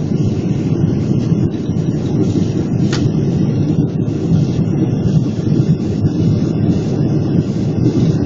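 Steady low roar inside the cabin of a Boeing 777-300, from airflow and engines on the approach.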